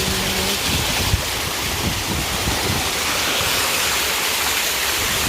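Steady hiss of water rushing over the rocks of a small river waterfall, with a single short thump about a second in.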